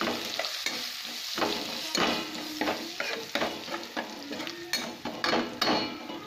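Spoon stirring sliced onions, mint and ground spices in hot oil in a kadhai: the oil sizzles steadily and the spoon scrapes the pan in repeated quick strokes.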